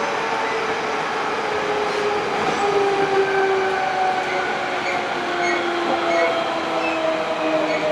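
Toshiba GTO-thyristor VVVF inverter of a Hankyu 8000 series train whining in several tones that shift downward in pitch in distinct steps, over the steady rumble of the train running on the rails.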